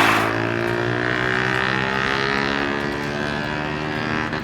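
Engine running steadily at a low, fairly even pitch that drifts slightly, with a brief rush of noise at the very start.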